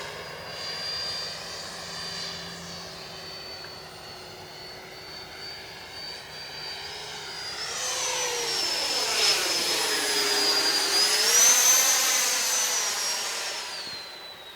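Freewing J-10's 90 mm electric ducted fan whining as the RC jet flies past. Its high fan tone steps up about halfway through as the throttle opens, the sound swells to a peak, and near the end the tone drops and fades as it moves away.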